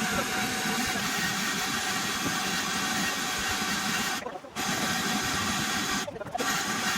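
A machine running steadily with a hissing whir, cutting out briefly twice, about four seconds in and again about six seconds in.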